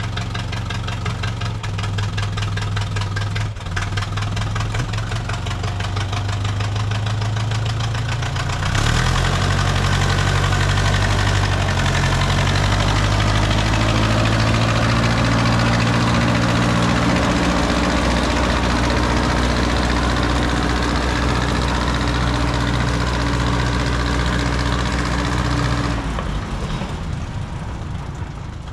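Engine of a small Plymouth industrial locomotive running steadily at low speed. About nine seconds in it gets louder and its pitch climbs as it is throttled up, holds high and steady for a long stretch, then drops back and fades near the end.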